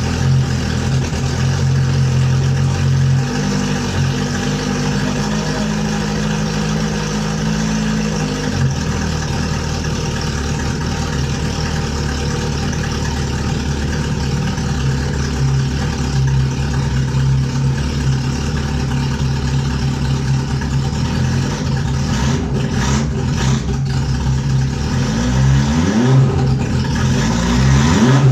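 Freshly rebuilt Suzuki GSX-R turbo inline-four running on choke with its main exhaust off, on its first run after the rebuild. It runs steadily, its pitch shifting a few seconds in and settling back about eight seconds in, and its revs rise twice near the end.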